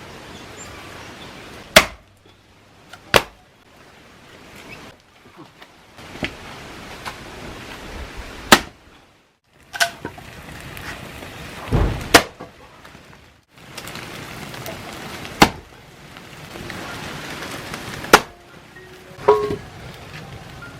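Chopping: about ten sharp single strikes spaced a second to a few seconds apart, two of them close together about twelve seconds in.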